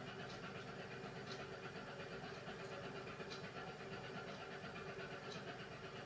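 Beko WMY81283LMB2 front-loading washing machine running its hand wash cycle: a steady hum with a soft swish about once a second.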